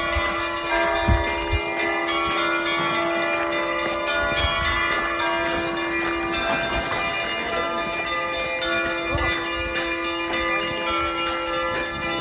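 Russian Orthodox church bells ringing together in a peal: many bells of different pitches sound over one another, above a steady deep bell tone.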